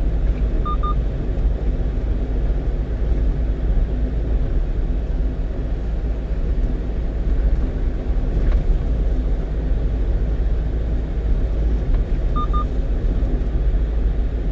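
Steady engine and road rumble inside the cab of a 1-ton truck driving at speed. Two short paired electronic beeps from the navigation unit, about a second in and again near the end.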